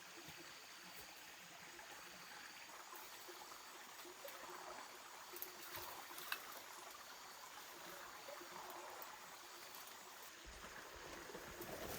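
Faint steady rushing background noise, with two short clicks about five and a half and six seconds in.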